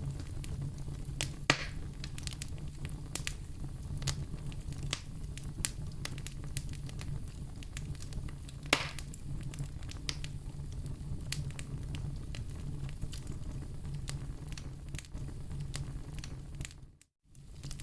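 Wood fire crackling in a fireplace: scattered sharp pops and snaps over a steady low rumble, with two louder pops about a second and a half in and about nine seconds in. The sound cuts out for about half a second near the end.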